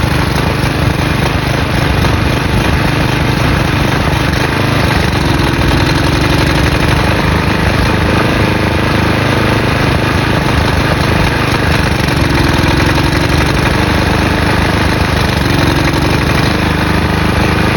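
Briggs & Stratton single-cylinder flathead lawn mower engine running loud and steady while used motor oil is fed into its carburetor intake.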